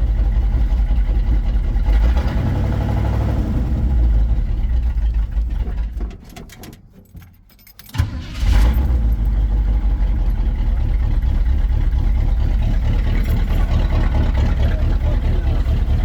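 Chevy 350 small-block V8 running on its newly replaced fuel lines. About six seconds in it dies away, and about two seconds later it fires again and settles into a steady rumbling idle.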